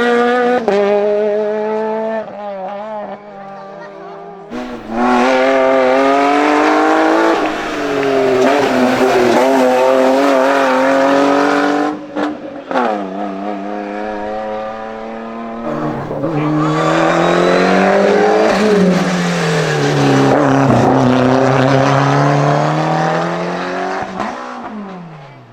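Hill-climb race cars at full throttle, engines revving high and dropping in pitch at each gear change as they pass one after another. One car comes through in the first half and another near the end, with a brief dip between.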